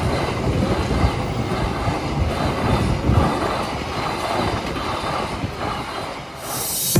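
Indonesian passenger train coaches rolling past over a level crossing, the wheels running loudly and steadily on the rails.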